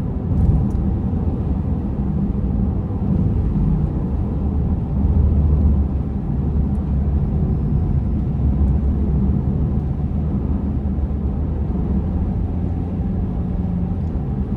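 Steady low rumble of road and engine noise inside a moving car's cabin, swelling slightly about five seconds in.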